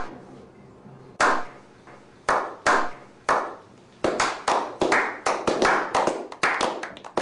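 A slow clap by a small group of men: single claps well apart at first, each echoing briefly, then quickening into faster overlapping clapping over the second half.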